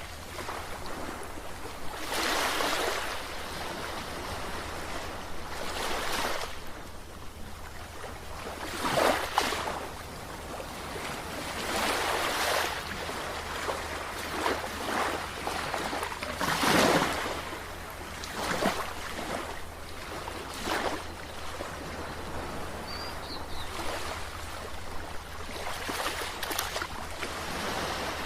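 Sea waves washing in, a fresh surge of noise every two to three seconds, over a steady low rumble.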